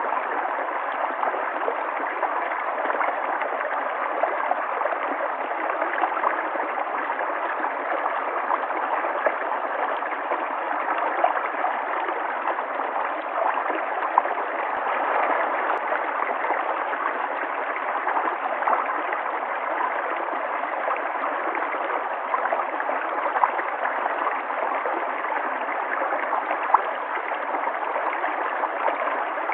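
River water flowing and gurgling steadily over stones, with small splashes throughout.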